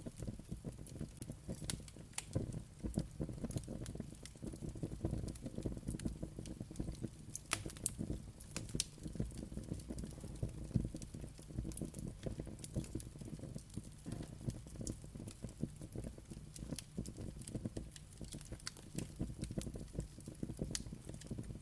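Wood fire crackling, with a steady low rumble of flames and frequent irregular sharp pops and snaps.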